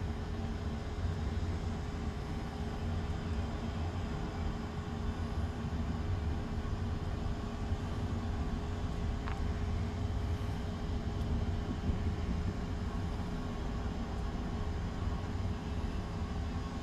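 Steady low rumble with a faint steady hum: the diesel locomotives of an approaching freight train, heard from a distance before it comes into view.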